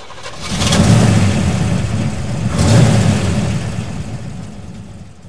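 Car engine sound effect revving in two swells, each opening with a rush of noise, then fading away.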